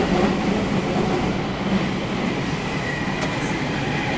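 Sendai City Subway 1000N-series train running, heard from inside the car: a steady rumble of wheels on rail and running gear, with a faint high whine coming in about halfway through.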